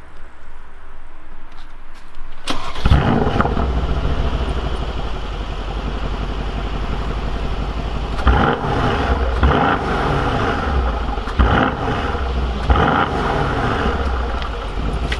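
Mercedes-AMG C63's 4.0-litre twin-turbo V8 starting about two and a half seconds in with a loud flare, then settling to a burbling idle. Between about eight and thirteen seconds it is blipped four times, the pitch rising sharply and falling back to idle each time.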